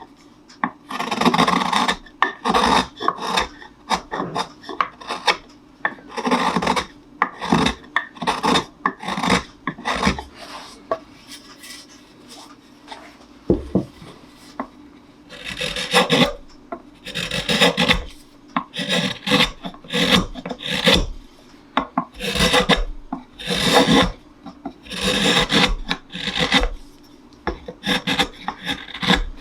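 Hand tool shaving and scraping along a wooden cello neck in repeated rasping strokes, about one or two a second, pausing for a few seconds in the middle with a single knock.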